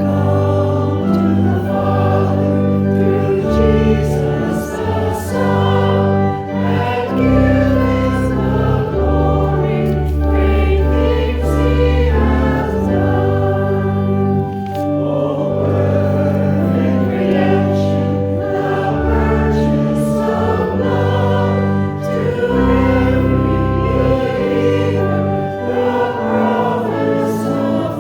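A choir singing a hymn over instrumental accompaniment, with long held bass notes underneath.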